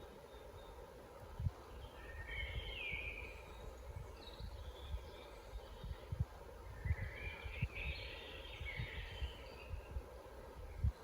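Wild birds singing in woodland: a chirping song phrase about two seconds in and a longer, fuller one around seven to nine seconds. A steady low rumble with scattered soft low thumps runs underneath.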